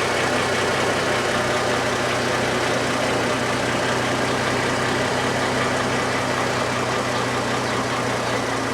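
Chevrolet Trailblazer's 4.2-litre inline-six idling steadily through a straight-piped exhaust that replaces the resonator. It holds a deep, even hum at a fixed pitch with no revving.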